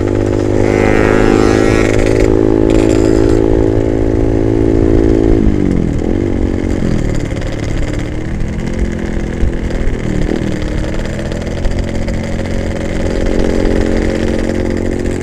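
Two-stroke motorcycle engine running at steady revs while riding, then its pitch drops and shifts about five to six seconds in and again about ten seconds in as the throttle is eased and gears change.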